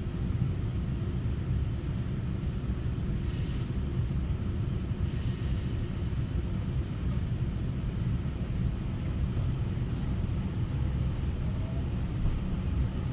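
Taiwan Railway EMU900 electric multiple unit running along the line, heard from inside the carriage: a steady low rumble of wheels and running gear, with two brief hisses about three and five seconds in.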